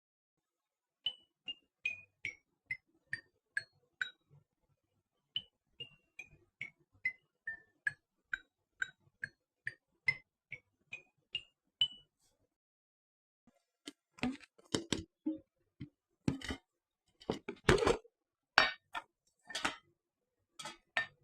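A run of short clinking taps on a hard object, about two or three a second, stepping down in pitch and then back up. These give way to a few seconds of louder, irregular clattering knocks.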